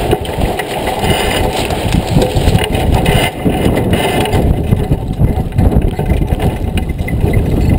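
Wind buffeting the microphone on a sailboat: a loud, uneven low rumble.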